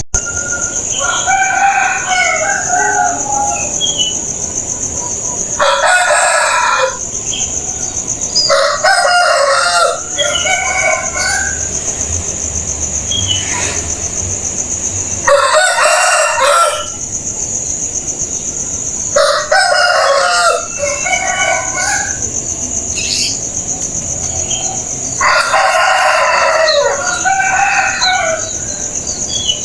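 Roosters crowing, about five crows spread a few seconds apart, with chickens clucking between them. A steady high whine runs underneath.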